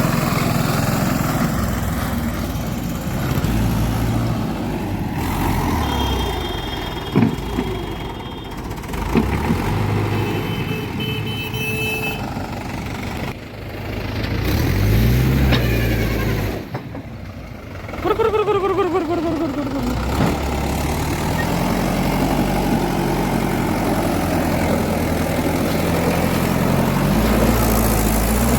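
Diesel engines of a JCB 3DX backhoe loader and tractors running under work, the engine speed rising and falling; two sharp knocks about seven and nine seconds in, and a brief drop in the engine note past the middle before it climbs again.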